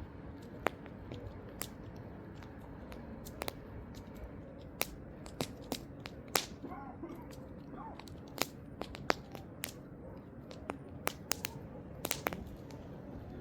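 Wood campfire crackling: sharp, irregular pops and snaps over a steady low rush of burning.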